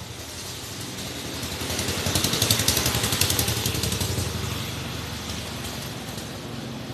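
A motor vehicle passing by, its engine sound growing louder to a peak about two to three seconds in, then fading away.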